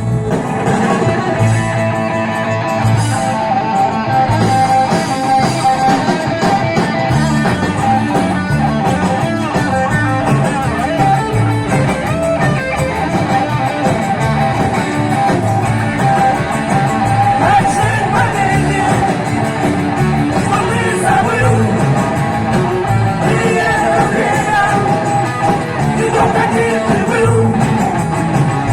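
Live rock-and-roll band playing an instrumental stretch of the song with guitar and a steady beat.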